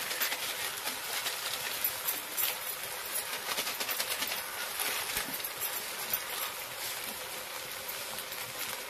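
Chicken curry masala sizzling and crackling in oil in an iron kadai over a wood fire, stirred with a metal spoon that clicks and scrapes against the pan a few times in the first seconds.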